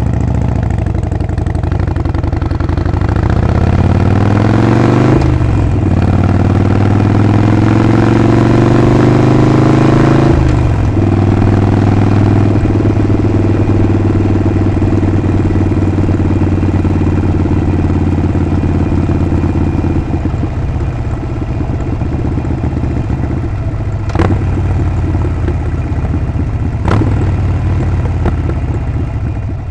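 Harley-Davidson Sportster 48's 1200 cc air-cooled V-twin engine and exhaust on the move. It pulls up in pitch through a gear, shifts about five seconds in, pulls up again and shifts about ten seconds in, then cruises steadily. It eases off a little around twenty seconds, with two sharp clicks near the end.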